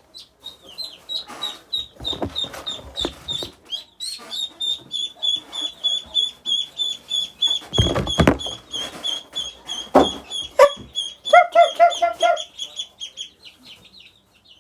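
Baby chicks peeping nonstop in fast, high, repeated peeps, several a second. There is rustling and a couple of knocks about 8 and 10 seconds in, and a short run of lower-pitched calls near the end.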